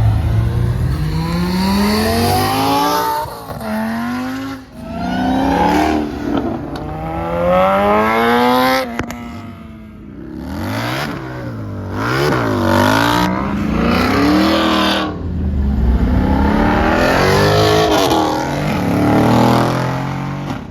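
Car engines revving and accelerating at a car meet, the pitch climbing repeatedly, dropping away and rising again.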